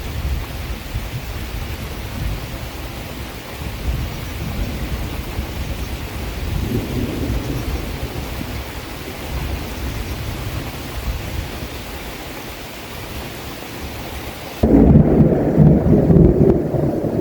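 Steady rain with a low rumble underneath. About fifteen seconds in the sound changes abruptly to a louder, deeper rumble and the hiss of the rain drops away.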